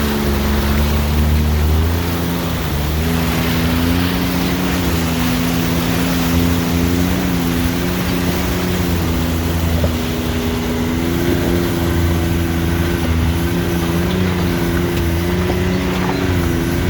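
A vehicle engine running at low speed on an off-road trail, its pitch stepping up and down several times, over a steady rush of tyre and wind noise.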